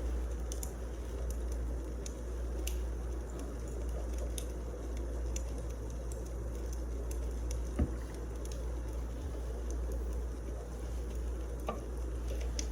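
Wood fire crackling: scattered sharp pops and ticks over a steady low rumble, with one louder snap about eight seconds in.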